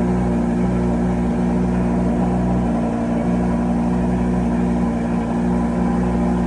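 Lamborghini Gallardo's V10 engine idling steadily, with an even, unchanging hum.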